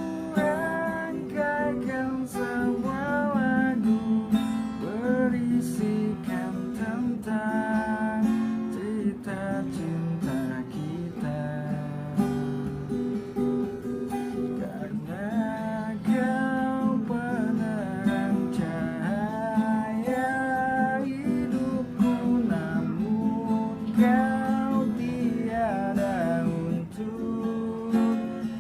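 Acoustic guitar strummed in chords while a voice sings a pop ballad over it.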